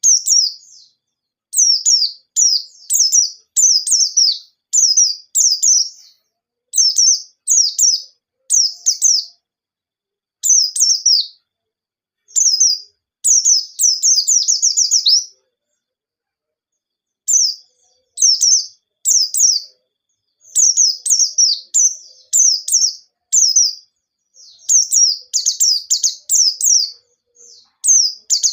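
White-eye (pleci) singing repeated quick bursts of high chirping phrases, each phrase a run of fast falling notes lasting about a second, with short gaps between them and a longer pause about halfway through.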